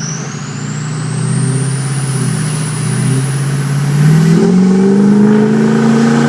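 6.0 Power Stroke diesel with a Powermaxx stage 2 turbo, its turbo whistle rising steadily in pitch as it spools up and cutting off about four seconds in, over the straight-piped engine running. The engine's pitch steps up as the whistle stops and then holds steady.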